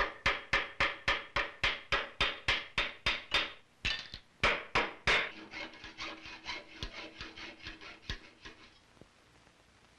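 Small hammer tapping on metal in a quick steady rhythm, about four ringing taps a second, each stroke separate. About halfway through the taps grow lighter and sparser, then die away.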